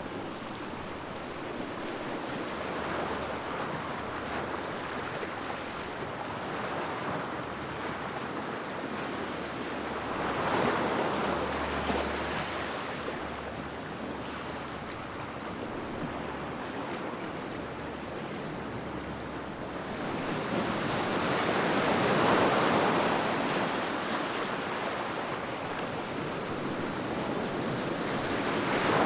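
Sea waves washing on a shore, a steady surf hiss that swells and ebbs, with louder surges as bigger waves break about a third of the way in, about two-thirds in, and again at the end.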